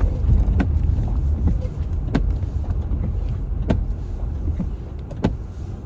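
Steady low road and engine rumble heard from inside a car driving on a wet, snowy expressway, with a sharp click about every second and a half.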